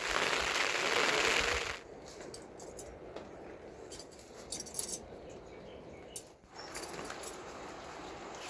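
A loud hiss lasting nearly two seconds, then scattered light clicks and knocks, as of small objects being handled.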